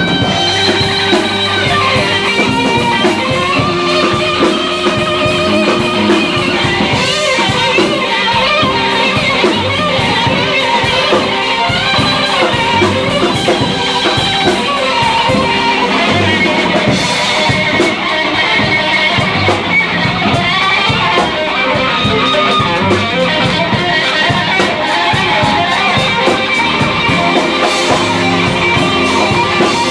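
Blues band playing live: electric guitar lead with bending notes over a drum kit.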